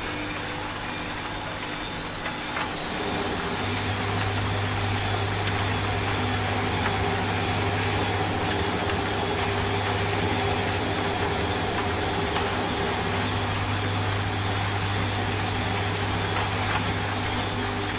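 Washing machine running with a steady low motor hum that grows louder a few seconds in, over a steady hiss of rain.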